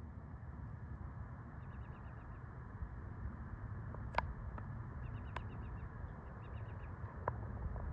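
Small birds chirping in short, rapid runs of high notes over a steady low rumble, with a few sharp clicks partway through.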